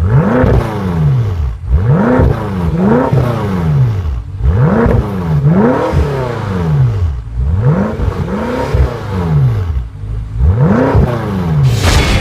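BMW M5 F10's twin-turbo 4.4-litre V8 revved through its quad exhaust, about eight quick blips of the throttle, each rising sharply and falling back to idle.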